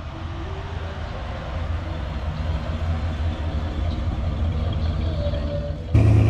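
A car engine running at low speed, a steady low rumble that gets a little louder after a second or so. About six seconds in, the sound suddenly gets louder and fuller.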